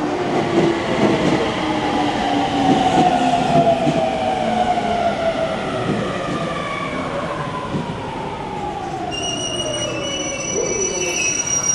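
Sobu Line local commuter train pulling into the platform and braking: the traction motors' whine falls steadily in pitch. About nine seconds in, a high steady brake squeal starts as the train comes to a stop.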